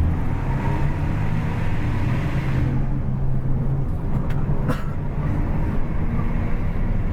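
Double-decker bus fitted with a racing exhaust, under way: a steady low engine drone with road noise, heard from on board. The higher hiss eases off about three seconds in, and there is a single short click just before the five-second mark.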